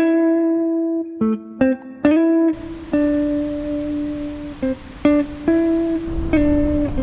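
Background music: a slow melody of single plucked guitar notes, each ringing out before the next. About two and a half seconds in, a steady hiss-like noise joins beneath the notes.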